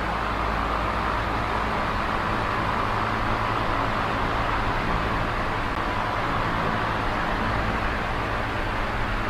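Small oscillating electric fan running steadily: a whirring rush of air over a low motor hum, the air noise swelling and easing slightly every few seconds.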